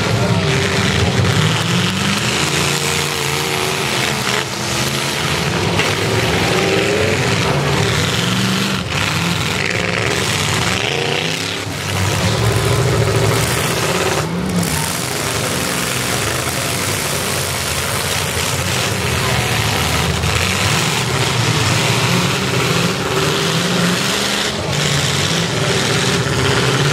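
Several demolition derby cars' engines revving and running hard together, their pitch rising and falling as they drive around and into each other.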